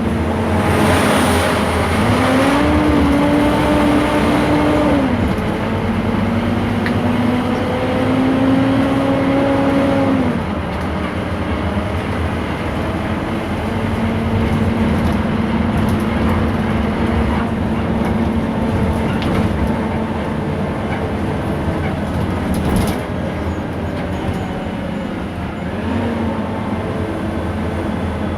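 Scania K230 IB city bus diesel engine pulling away through its ZF automatic gearbox. The engine pitch climbs and drops back at upshifts about five and ten seconds in, then holds steady at cruising speed. A short hiss sounds about a second in.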